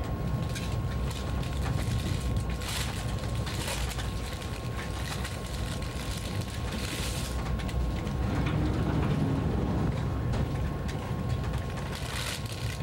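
Running noise of a first-generation ICE high-speed train heard from aboard: a steady low rumble with many small clicks and rattles and a thin steady tone. Brief hissing swells come a few times.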